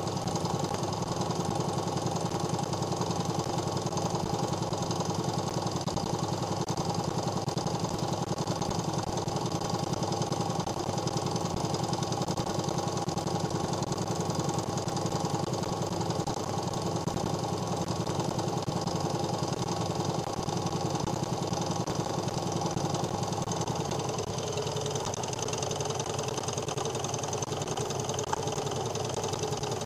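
Homemade Ross-yoke Stirling engine running steadily with a fast, even mechanical rattle; its note shifts slightly about six seconds before the end.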